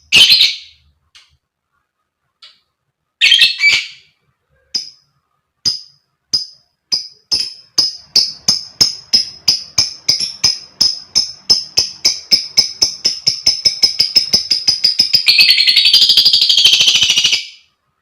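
Lovebird 'ngekek': two harsh squawks, then a run of short, high chirps that starts at about one a second and speeds up steadily into a fast rattling chatter, ending in a loud, harsh burst of about two seconds. This is the long ngekek chatter that lovebird keepers prize.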